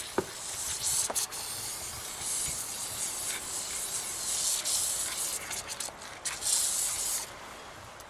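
WD-40 aerosol can spraying penetrating oil in several hissing bursts of one to two seconds each, with small clicks between them. A single sharp knock comes right at the end.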